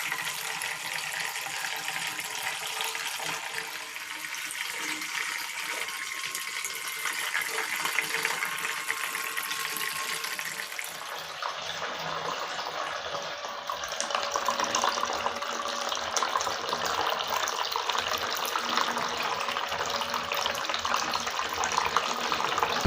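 Water trickling and splashing steadily in a homemade tabletop fountain made from old mugs, its tone changing about halfway through.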